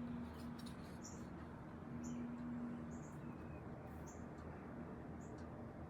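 Faint, short, high-pitched chirps about once a second, over a low steady hum.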